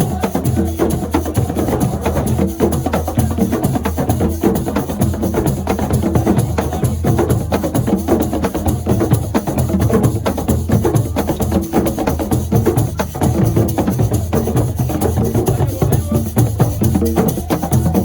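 Assiko percussion music: fast, dense drumming with sharp clicking strikes, keeping up a steady driving rhythm.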